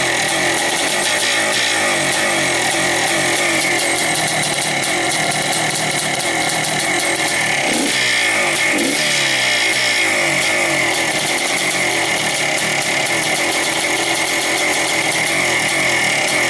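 1983 Yamaha IT490's air-cooled single-cylinder two-stroke engine idling steadily, exhausting through a DG pipe.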